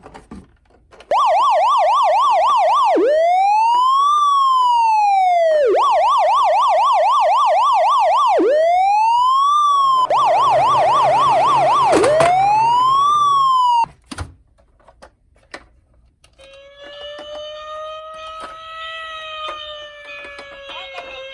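Toy minicar's electronic emergency siren, loud, alternating a fast yelp with a slow rising-and-falling wail, cycling through this about three times before cutting off suddenly near 14 seconds. After a short pause and a click, a second, quieter siren starts about 16 seconds in with a slow wail.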